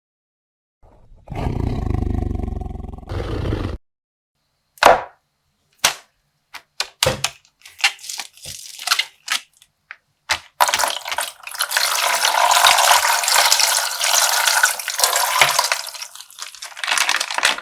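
A low, noisy rumble for a couple of seconds, then scattered sharp clicks and crinkles of a water-filled plastic toy bag being handled, then several seconds of steady rushing water as its colored water is poured or splashed out.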